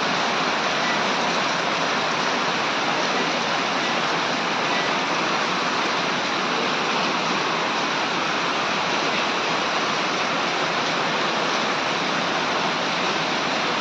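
Rushing water: a steady, even rush with no change in level.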